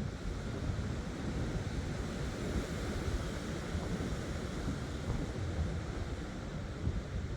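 Strong wind buffeting the microphone: a steady rushing noise, heaviest in the low end.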